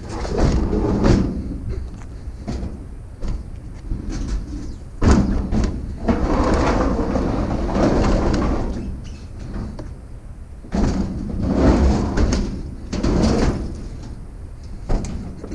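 Thumps, knocks and scraping of an old clothes dryer's sheet-metal cabinet being handled and shifted, with a few heavy bangs and rough dragging between them.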